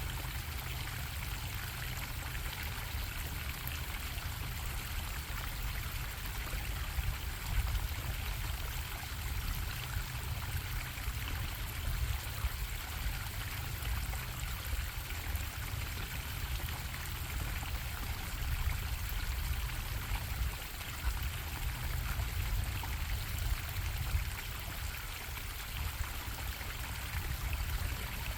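Stream water running steadily over rocks, an even rushing and bubbling with a strong low rumble underneath.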